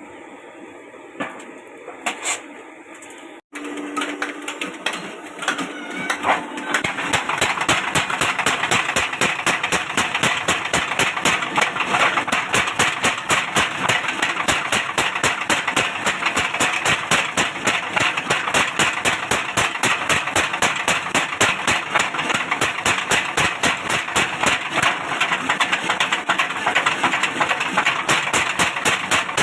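Rapid, evenly paced hammer blows on hot iron, several strikes a second, setting in about seven seconds in and keeping an unbroken rhythm while nails are forged. A few light metallic clinks come before it.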